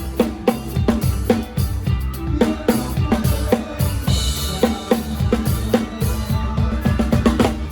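Live rock drum kit played in a steady beat, with kick drum and snare driving under the band's music and a brighter cymbal wash coming in about four seconds in.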